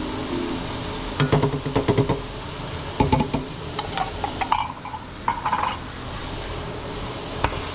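Cooking utensil stirring and scraping food in a metal pot, with several quick runs of clinks and knocks against the pot, over a faint sizzle.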